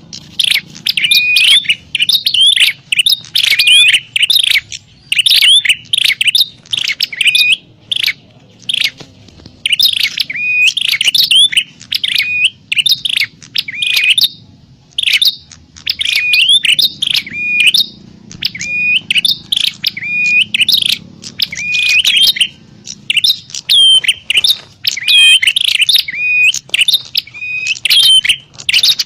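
Prinias (prenjak) calling in fast, loud bouts of sharp, hooked chirps, one bout after another with short pauses: the agitated fighting call used as a lure to draw in wild prinias.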